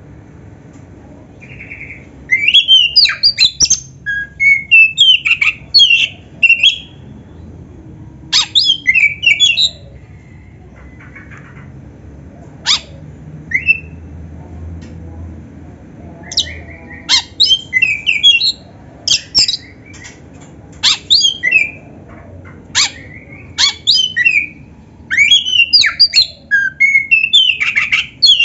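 Oriental magpie-robin (black-breasted kacer) singing loud, quick phrases of sliding whistles and chatter, its song filled with canary-like phrases. The phrases come in bursts separated by pauses: sparse for a few seconds in the middle, then a dense run from a little past halfway.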